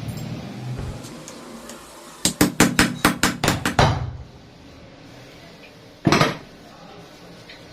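Hammer blows on metal: a quick run of about nine strikes, roughly five a second, then one more strike a couple of seconds later.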